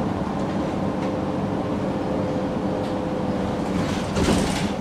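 MAN NG 313 articulated city bus running, a steady diesel drone with several low engine tones, and a brief rushing noise about four seconds in.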